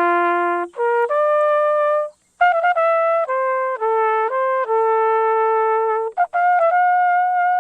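A solo trumpet playing a slow melody of held single notes, with a short break about two seconds in.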